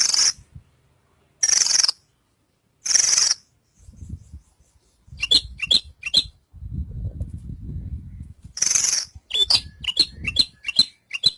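Horsfield's bushlark (branjangan) singing: three short, harsh, buzzy notes about a second and a half apart, then a few sharp chirps, another harsh note and a quick run of high chirps near the end. A low rumble runs under the song in the middle.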